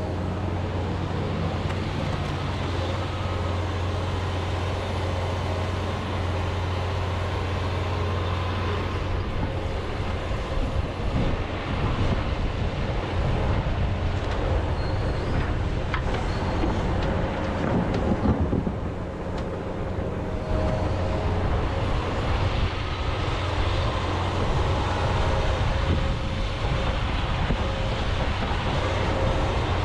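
John Deere 210G excavator's diesel engine running steadily while the machine works. About ten seconds in, the sound turns louder and more uneven, with knocks and scraping as the bucket breaks into frozen peat moss.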